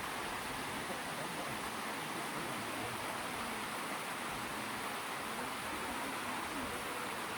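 Flowing water running steadily, an even rush.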